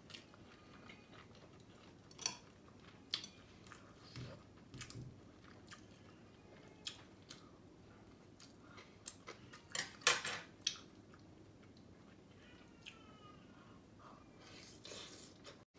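A person eating noodle soup with rib meat: quiet chewing and lip smacks with scattered sharp clicks, the loudest cluster about ten seconds in.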